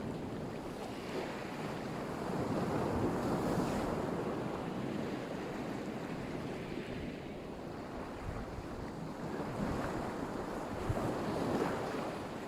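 Black Sea surf: waves washing onto the shore, the noise swelling and easing as each wave comes in, with wind buffeting the microphone.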